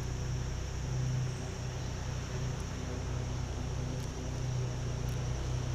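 Steady outdoor ambience: an even hiss with a constant high-pitched drone over a low, gently pulsing rumble.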